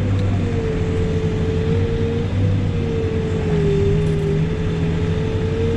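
Backhoe's diesel engine running steadily, with a steady whine over it that dips slightly in pitch near the middle.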